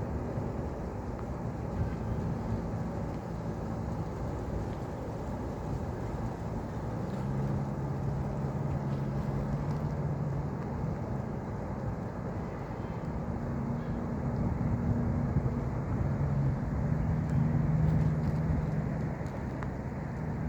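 Low, steady hum of distant motor traffic, with an engine drone that swells twice, in the middle and again near the end.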